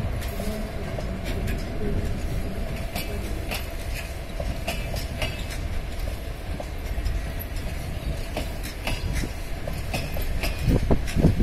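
Passenger coaches of a departing train rolling past, wheels clicking and knocking over rail joints and points above a steady low rumble. A louder run of thumps comes near the end.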